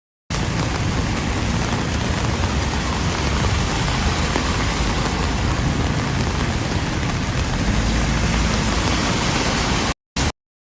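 Heavy rain, a steady loud hiss with a low rumble underneath. It cuts in abruptly just after the start and cuts off abruptly near the end, with one brief burst after.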